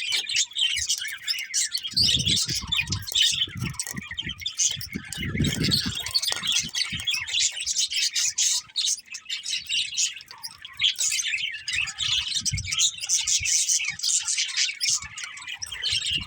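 Several budgerigars chirping and chattering without pause in a dense, high-pitched twitter. A few short low rumbles sound underneath, about two, five and twelve seconds in.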